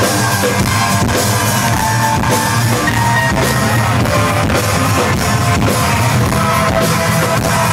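Live rock band playing an instrumental passage: electric guitars and a drum kit at full volume, with steady drum hits under the guitar.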